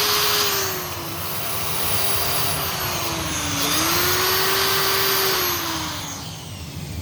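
High-speed hand grinder spinning a deburring wheel, its whine sagging in pitch twice as the wheel is pressed onto the edge of a connecting rod, then winding down about six seconds in. The wheel is breaking the edge and taking off burrs where the rod bolt seats.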